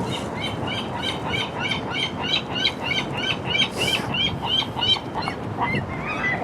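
A gull calling a fast run of repeated, arching notes, about four a second for some five seconds, then a few looser calls near the end, over a steady rush of wind and water noise.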